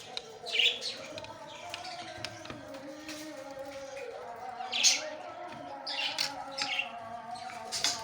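Aviary budgerigars (Australian parrots) chirping, with many short, sharp calls and the loudest about half a second in and near five seconds.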